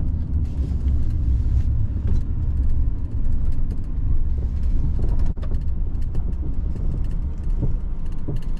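Car road noise heard from inside the cabin while driving: a steady low rumble, with scattered faint clicks.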